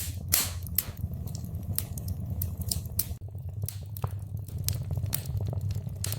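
Wood fire in a fireplace crackling, with irregular sharp snaps and pops over a steady low rumble of the flames.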